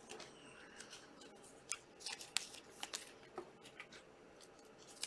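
Trading cards being handled and flipped through: faint, irregular clicks and light slides of card stock against card stock.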